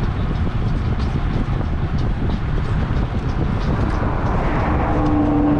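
Wind buffeting a GoPro Hero 8's built-in microphone: a loud, steady low rumble. A steady hum joins in near the end.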